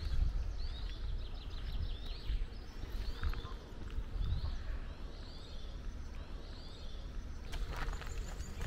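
A bird singing short, repeated phrases of quick falling chirps, several times, over a steady low rumble.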